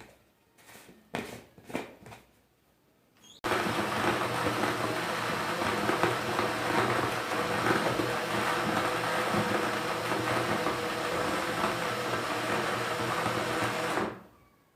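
A small electric motor starts abruptly about three seconds in and runs steadily and loudly, then stops near the end. A few soft clicks and knocks come before it starts.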